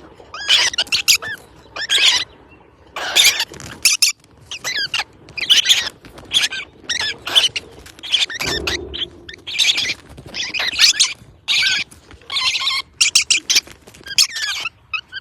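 Young parrots squawking over and over, short high calls bending in pitch, coming about once or twice a second.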